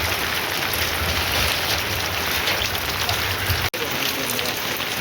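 Heavy rain pouring steadily, a dense even hiss with a low rumble beneath it. The sound drops out for an instant about three and a half seconds in, and the low rumble is gone afterwards.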